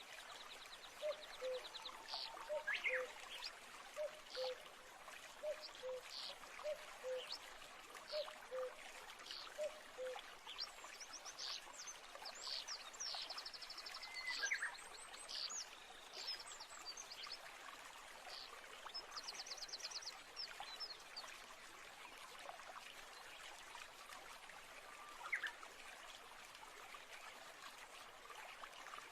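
Nature ambience: a stream running steadily, with several birds calling over it in quick high trills and short chirps. A low two-note call repeats about once a second through the first ten seconds.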